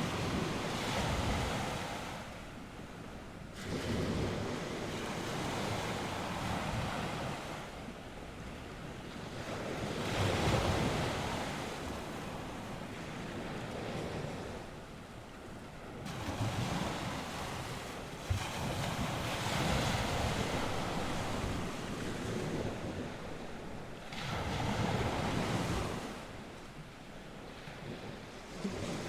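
North Sea waves breaking and washing on the shore, the surf swelling and ebbing in irregular surges every few seconds.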